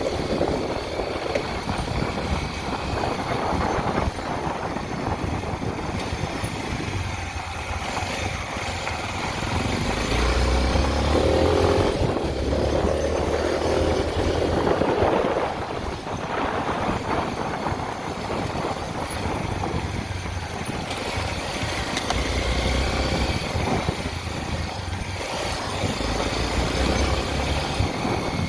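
Honda XR 250 Tornado's single-cylinder four-stroke engine running as the motorcycle is ridden, with a heavy low rumble that swells and fades.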